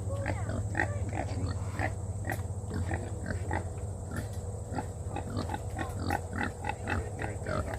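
Kune Kune pigs grunting in short, quick calls, several a second, over a steady low hum.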